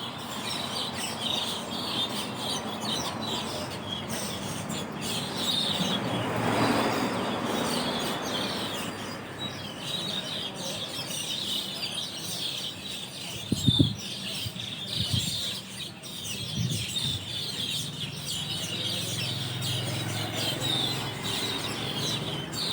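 A flock of Asian glossy starlings (perling) calling together, many high twittering and chattering calls overlapping without a break, as at a communal roost. A broad low rumble swells and fades in the first third, and a few short low thumps come about halfway through.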